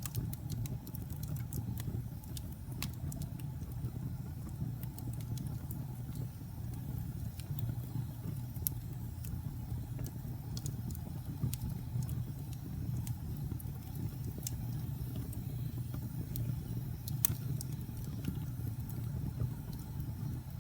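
Wood fire of burning logs in a fireplace, a steady low rumble of flame with frequent irregular crackles and sharp pops, one louder pop about three quarters of the way through.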